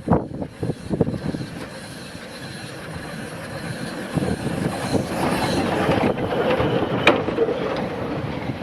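A steam train running along the line, rumbling and clattering, with its sound building steadily louder. Sharp knocks come near the start and again about seven seconds in.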